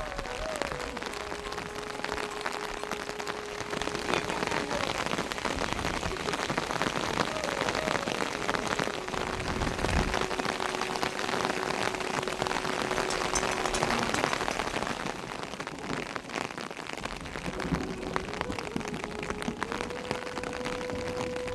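Steady rain, a dense hiss full of sharp drop impacts. A faint steady hum sits under it, holding one pitch for several seconds and then shifting to a slightly different one a few times.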